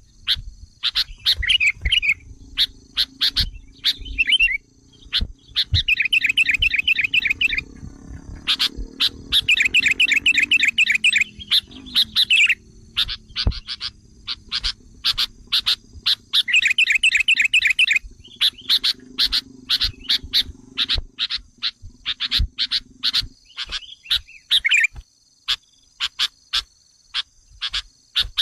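Sooty-headed bulbul (kutilang) lure calls: a dense run of sharp chips broken by bursts of fast, chattering trills lasting a second or two each. A steady high-pitched whine sits behind the calls.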